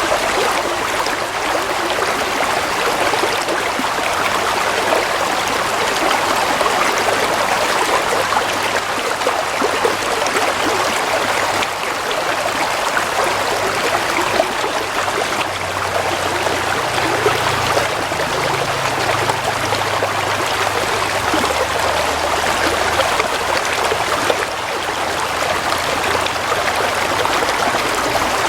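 Gently flowing stream water, a steady, even rush of running water.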